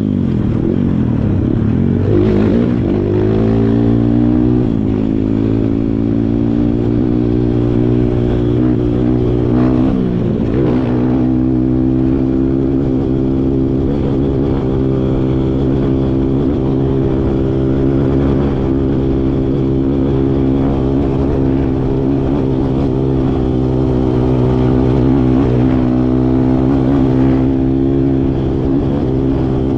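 Kawasaki KLX140 trail bike's single-cylinder four-stroke engine running steadily under the rider, its revs dipping and rising a few times.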